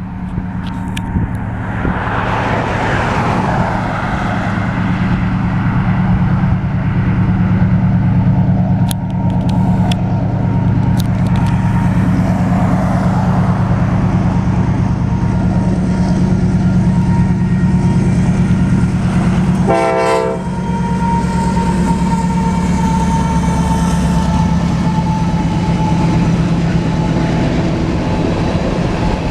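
Union Pacific double-stack intermodal freight train passing, its diesel locomotives running with a steady low drone over the rolling noise of the train.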